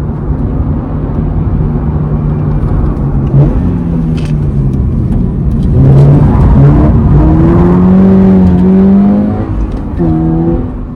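Toyota GR86's 2.4-litre FA24 flat-four with a non-resonated GFP-back exhaust and carbon intake, driving. It runs at a steady note, dips in pitch about three seconds in, then gets louder about six seconds in with the pitch climbing under acceleration, and drops back shortly before the end.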